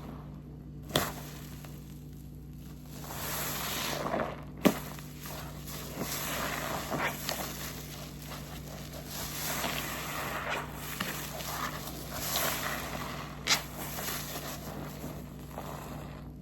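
A pink waffle-pattern car-wash sponge soaked in blue detergent being squeezed and wrung out, giving a wet squelch that swells and fades. A few sharp snaps stand out, the loudest about four and a half seconds in.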